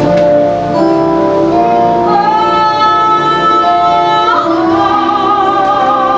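Music with a woman singing long, held notes over an instrumental accompaniment.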